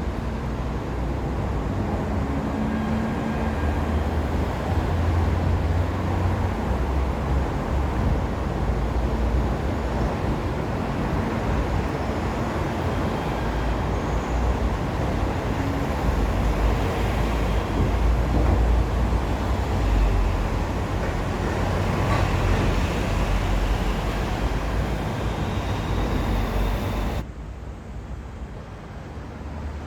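Steady vehicle running noise: a low rumble with a noisy wash over it, swelling and easing a little, then cutting off suddenly and dropping to a quieter background near the end.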